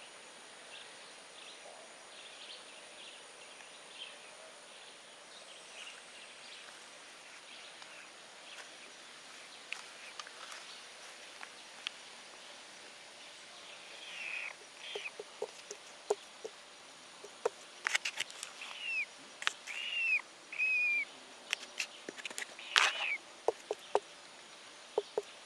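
Outdoor ambience with a steady faint background. From about halfway, birds give a string of short chirping calls, mixed with a scatter of sharp clicks and taps.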